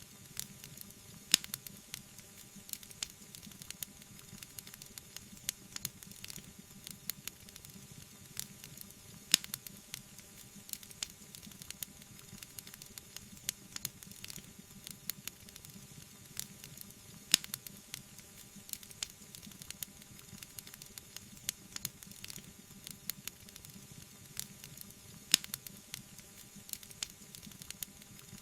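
Wood fire in a fireplace crackling, with many small irregular snaps over a soft hiss and a sharper pop about every eight seconds.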